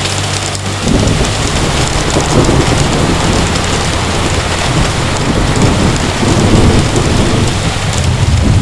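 Heavy rain falling steadily, with a deep rumble of thunder rolling in about a second in and carrying on underneath it.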